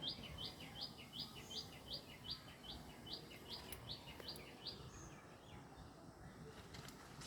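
A small bird calling in a fast, even series of short rising notes, about three a second, which stops about five seconds in.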